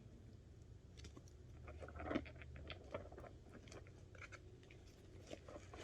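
A cat chewing on a cardboard box: faint, irregular crunches and clicks.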